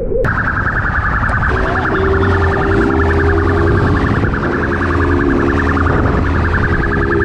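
Police siren yelping in a fast, even warble. A steady lower tone joins it about a second and a half in.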